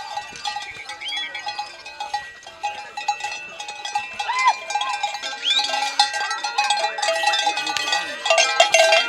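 Many cowbells clanking and ringing without pause, with short shouted calls rising over them now and then.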